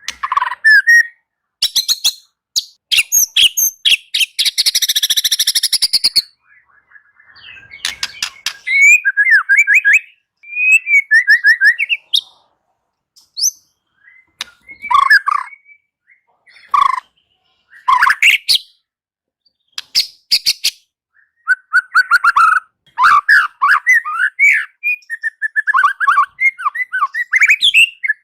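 White-rumped shama (murai batu) singing a varied song of short separate phrases with brief pauses between them. The phrases mix rapid clicking rattles, a dense high trill and clear whistled notes.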